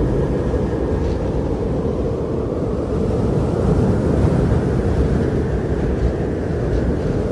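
Strong blizzard wind blowing with a deep, steady rush that swells a little about halfway through.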